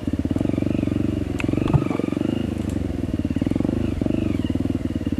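Trail motorcycle engine running at low revs, a steady rapid putting with small rises and falls in revs as the bike picks its way along. A single sharp knock a little under two seconds in.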